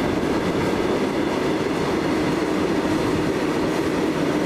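Electric multiple-unit train running away along the rails: a steady rolling rumble of wheels on track.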